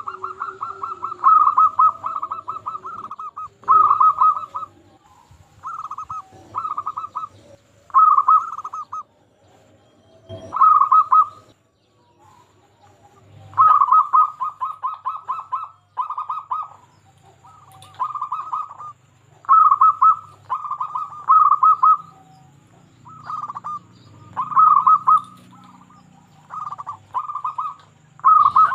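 Zebra dove (perkutut) cooing its repeated song: about fifteen phrases of rapid rolling notes, each lasting half a second to two seconds, with short pauses between them.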